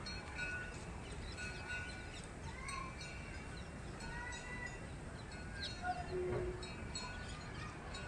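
Birds calling at dusk: many short, high chirps and whistles overlapping, with one lower, louder call about six seconds in, over a low steady background rumble.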